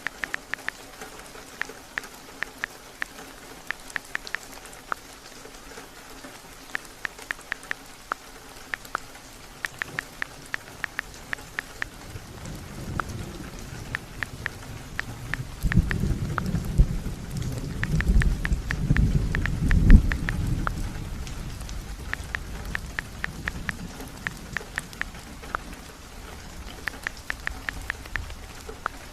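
Heavy rain falling steadily during a thunderstorm. A long, low rumble of thunder builds about halfway through, is loudest around two-thirds in, then fades away. Runs of light, sharp taps come and go throughout.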